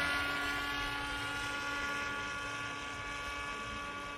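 Skyhunter fixed-wing drone's motor and propeller whining at a steady pitch, slowly fading, as the aircraft sets up its landing approach.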